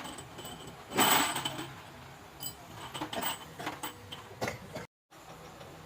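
Scattered metallic clinks and knocks of tools and parts being handled during engine repair, with a louder scraping clatter about a second in.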